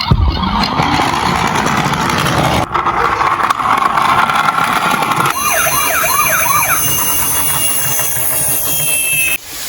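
Emergency-vehicle siren: after a few seconds of noisy rushing sound, fast rising-and-falling sweeps of pitch start about five seconds in and cut off shortly before the end.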